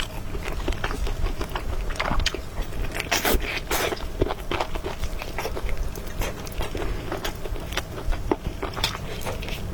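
Close-up eating sounds from a mukbang of noodles and soup: chewing with many irregular mouth clicks, over a low steady hum.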